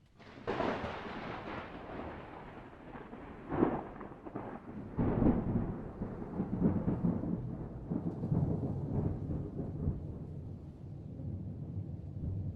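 Thunder: a sudden crack about half a second in, then a long rolling rumble with two sharper peaks around four and five seconds in.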